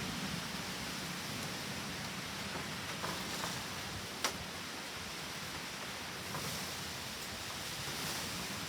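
Steady hiss of heavy typhoon rain, with scattered drops tapping and one sharp tap about four seconds in.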